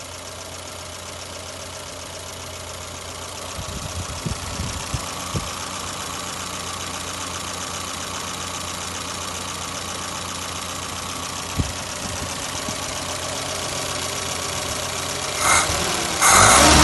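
Carburetted car engine idling steadily, with a few light knocks a few seconds in. Just before the end the throttle is opened by hand and the engine revs up sharply.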